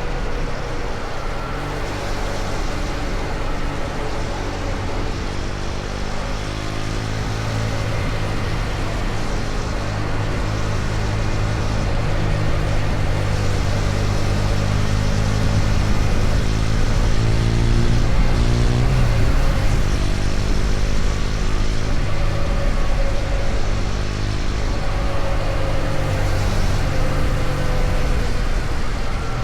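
KTM Duke 250's single-cylinder engine running at highway speed, with wind and road noise rushing over the microphone. The engine note grows louder for several seconds, then drops in pitch about two-thirds of the way through.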